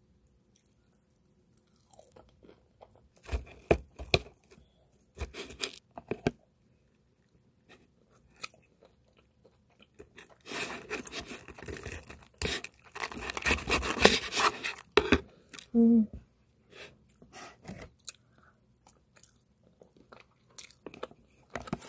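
Crunchy chewing of KFC Hot Fried chicken's crisp battered coating, in several bouts, the longest and loudest from about ten to fifteen seconds in.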